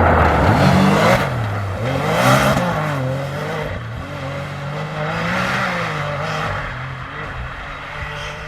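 Rally-raid competition vehicle's engine revving hard, its note rising and falling several times through gear changes as it passes. It is loudest near the start and fades toward the end.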